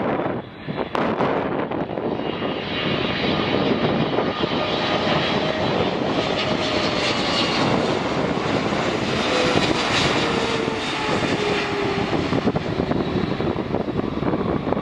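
Jet airliner's engines as it passes, a steady broad rush with a faint whine that slowly falls in pitch.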